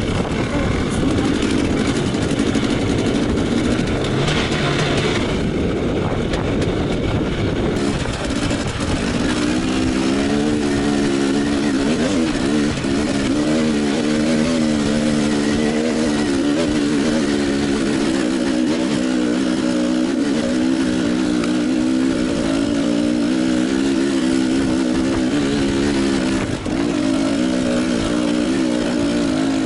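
Enduro motorcycle engine running, its pitch wavering up and down as the throttle is worked.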